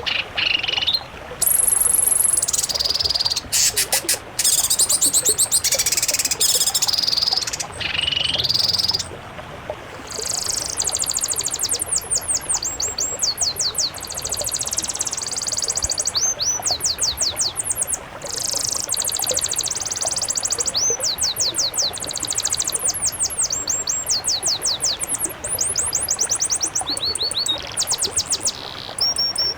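A mix of songbirds singing high-pitched, rapid chirps and trills in short phrases, with many notes a second, in a masteran combination recording of the kind used to train caged songbirds.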